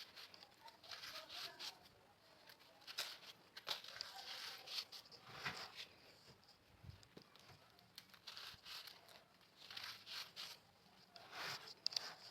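Salt being crushed: a series of irregular crisp crunches and crackles, about one every second.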